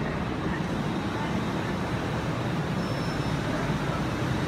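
Steady, even rumble from a class 350 electric multiple unit at the platform as it works up to coupling onto another unit.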